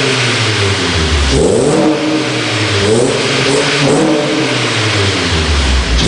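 Honda Accord engine revved through an aftermarket Fujitsubo exhaust, its note rising and falling in several throttle blips. The owner doubts it is really a Legalis R because it does not sing.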